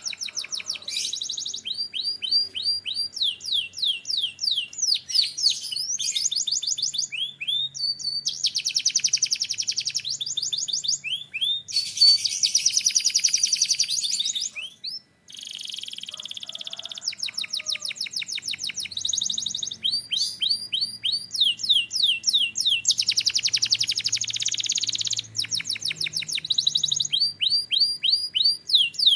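Canary singing: strings of quick sweeping notes alternating with dense, fast rolling trills, with a brief break about halfway through.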